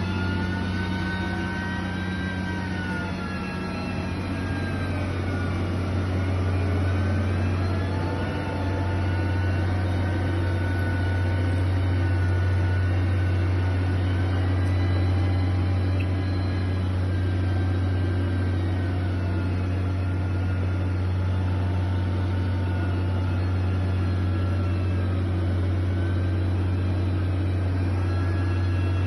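Heavy construction machine's diesel engine running steadily, with a deep hum and a pitch that rises and falls slowly as the engine speed changes.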